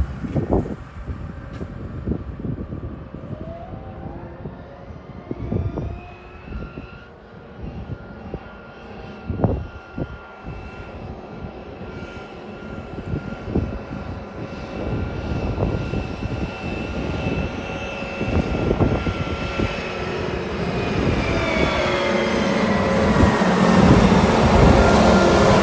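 Engine running with a thin whine that rises in pitch a few seconds in, holds steady, then falls again, with scattered knocks. It grows louder and deeper over the last few seconds.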